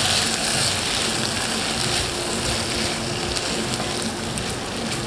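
Pasta in a green masala sauce sizzling in a hot nonstick pan as a spatula stirs in freshly added cream, a steady frying hiss.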